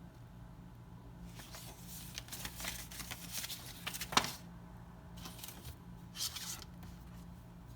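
Hands handling packaging, with a stretch of rustling and scraping and a sharp click about four seconds in, then two short rustles. A low steady hum runs underneath.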